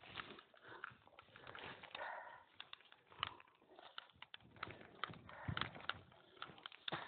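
Footsteps on a forest trail, with uneven crunching and crackling of dry leaves and twigs underfoot and rustling as the walker brushes through vegetation.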